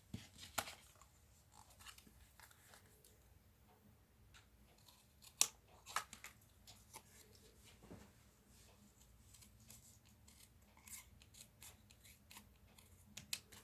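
Scissors trimming a small paper scrap: faint, scattered snips and clicks, a few louder than the rest.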